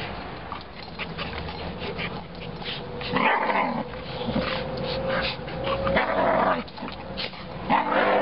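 Standard Schnauzer and black Labrador tussling in play, with loud dog vocal bursts about three seconds in, again around five to six seconds, and near the end.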